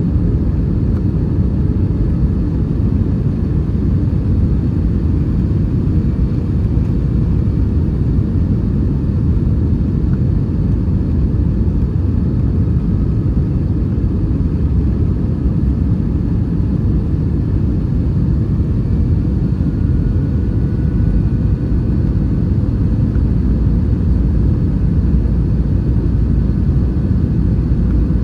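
Steady low rumble inside the cabin of an Airbus A320-232 in flight: airflow over the fuselage and its IAE V2500 turbofan engines, even throughout.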